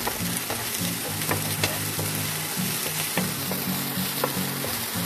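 Chopped green garlic and green chillies sizzling in ghee in a nonstick frying pan as a wooden spatula stirs them, with short scrapes and taps of the spatula against the pan. A low hum repeatedly cuts in and out underneath.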